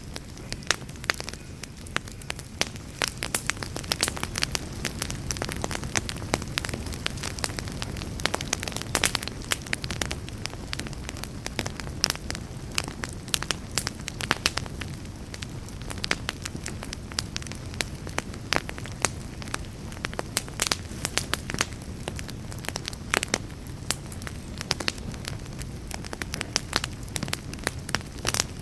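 Wood campfire crackling, with frequent irregular sharp pops and snaps of varying loudness over a steady low rush.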